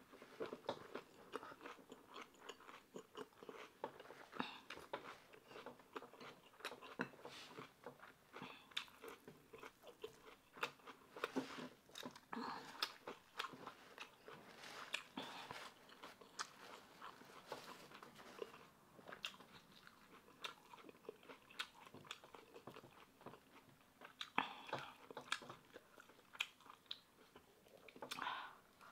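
Close-miked mouth sounds of a person eating fried pork: chewing and biting with irregular crunches and wet clicks, a little louder in a few bursts near the end.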